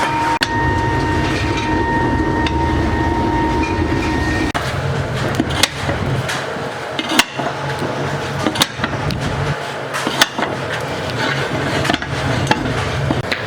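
Workshop machinery running with a steady whine over a low hum, which cuts off about four and a half seconds in. Irregular hammer blows follow, roughly one every second or so.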